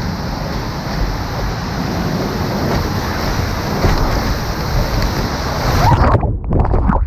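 Rushing river water through rapids, a loud steady roar. Near the end the hiss in the upper range drops away suddenly, leaving a duller, choppier water sound.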